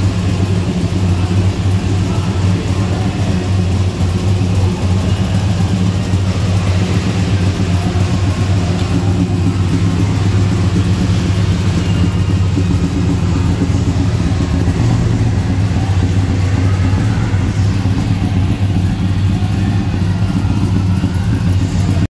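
Chevy Caprice's 6.2-litre V8 idling steadily, a loud, low, even engine note close by.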